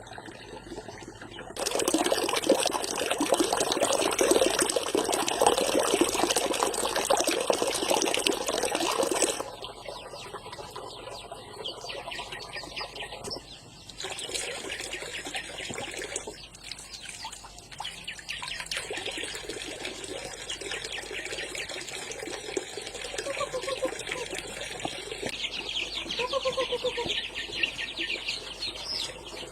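Water running in a strong, steady stream for about eight seconds, starting about two seconds in, followed by quieter, irregular splashing and handling sounds. Near the end, a chicken clucks a few times.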